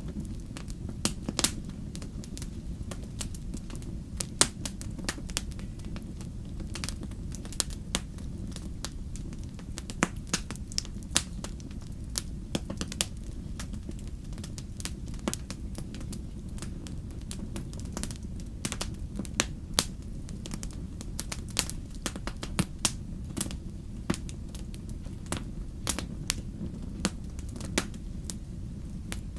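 Wood fire burning in a fireplace: a steady low rumble of flames with irregular sharp crackles and pops, several a second, some louder than others.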